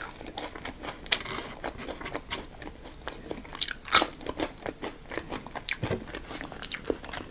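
Close-miked crunching bites and chewing of crisp food, irregular crackly snaps with the loudest crunch about four seconds in.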